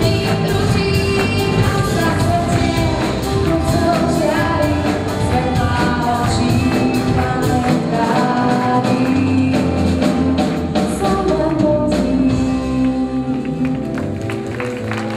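A live band playing a song with a singer and steady percussion, the music easing toward the end of the song.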